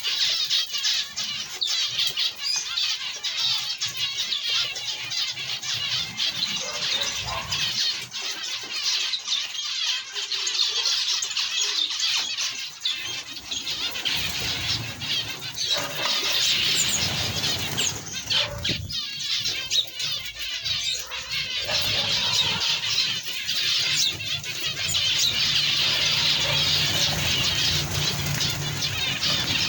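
A dense, unbroken chorus of many small ornamental birds in an aviary, chirping and chattering over one another.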